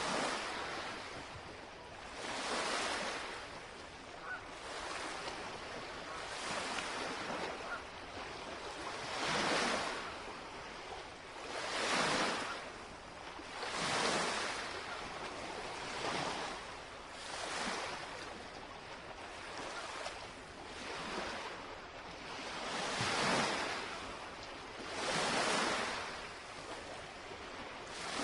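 Small lake waves lapping and washing against the shore, one wave every two seconds or so, each swelling and fading away.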